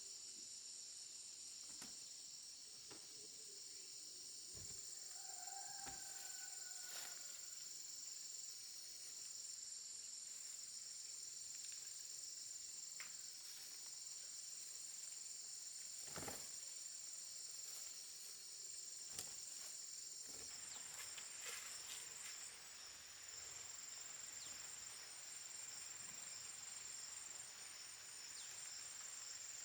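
Steady, high-pitched insect chorus with a pulsing texture. Over it come a few faint clicks and, about six seconds in, a short faint pitched call.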